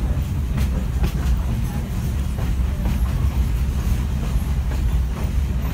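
Passenger railcar rolling along the track, heard from on board: a steady low rumble with wheel clicks over the rail joints now and then.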